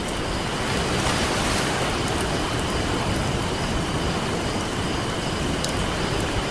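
Ocean surf washing steadily, with a wave swelling about a second in, while a campfire crackles with scattered small sharp pops.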